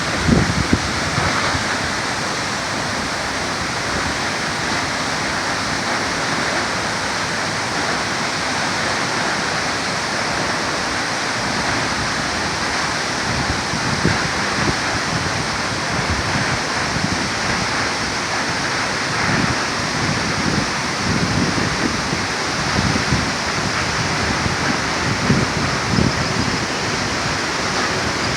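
Upper Multnomah Falls pouring and splashing: a steady, loud rush of falling water, with uneven low rumbles underneath.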